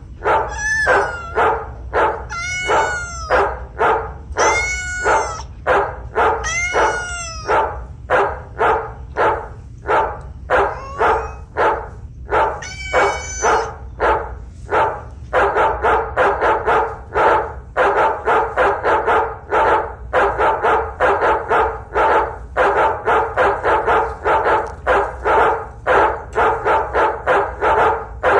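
Barking stuffed toy dog giving a run of short, evenly repeated barks. In the first half a longer call that rises and falls in pitch comes about every two seconds; from about halfway the barks come faster and steadier, several a second.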